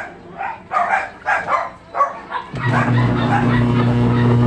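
A dog barking repeatedly for the first couple of seconds, then a twin-tub washing machine's spin motor switching on and running with a loud, steady hum. The spinner is driven by a newly replaced pump belt and now turns strongly enough that a hand cannot hold it back.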